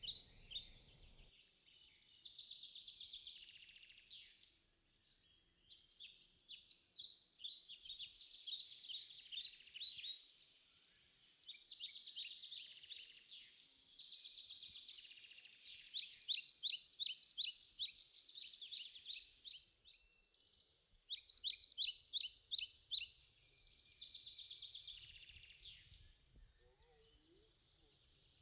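Birds chirping in a tropical forest: overlapping runs of rapid, high-pitched repeated notes that swell and fade every few seconds.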